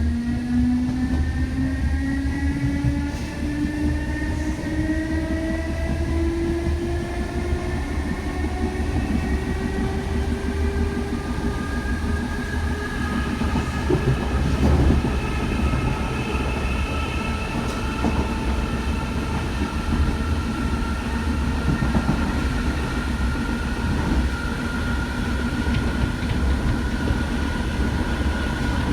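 Electric DART commuter train accelerating: the traction motors whine in several tones that rise steadily in pitch for about the first half, then level off, over a constant low rumble from the wheels on the rails.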